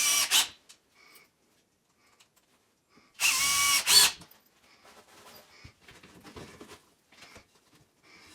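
Handheld power drill run in two short bursts, the second one spinning up in pitch, with small clicks and handling noises in between.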